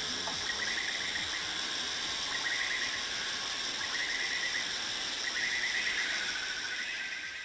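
Rainforest insect chorus: a dense, steady high buzz, with a pulsing trill that repeats about every second and a half, fading out near the end.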